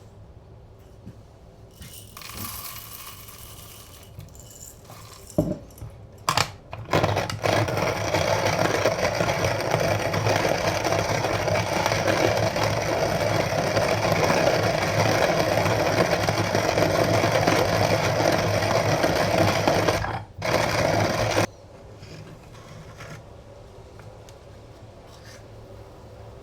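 Antique coffee grinder in use, most likely milling beans: a few sharp clacks, then a steady, loud gritty grinding that lasts about fourteen seconds, breaks off briefly near the end and stops abruptly.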